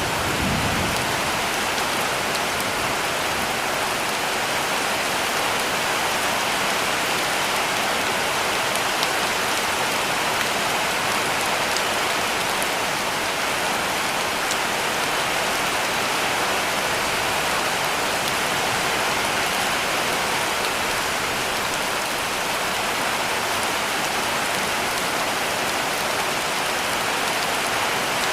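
Heavy rain falling steadily on a cabin roof: a dense, even hiss with scattered drop ticks. There is a brief low thump just after the start.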